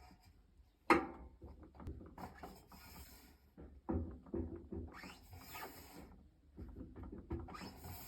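Faint handling sounds: a sharp click about a second in, then scattered light knocks and rubbing.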